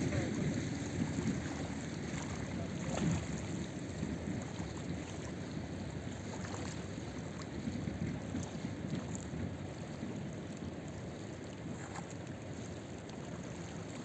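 Steady rushing of river water and wind on the microphone, with a few faint knocks, slowly easing towards the end.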